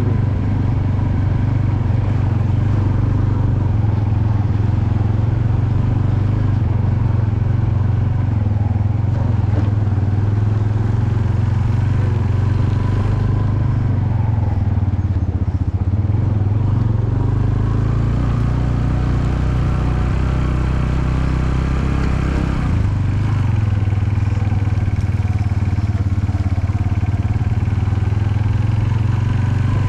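Vehicle engine and road noise heard while riding along, running steadily, with a slight shift in engine note about two-thirds of the way through.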